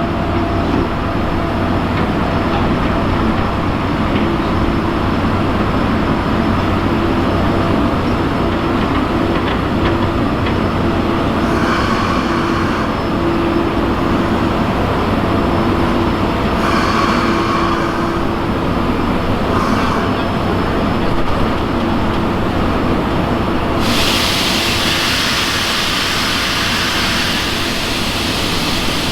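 Steam train running on the rails, a steady loud rumble with a constant hum underneath. Short higher-pitched sounds come three times in the middle, and late on a loud hiss sets in suddenly.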